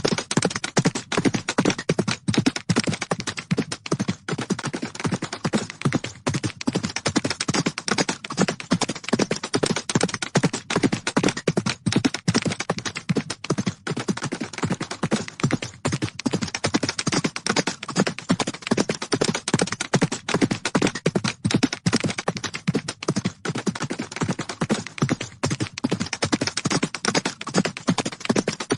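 Horses galloping: a rapid, continuous drumming of hoofbeats.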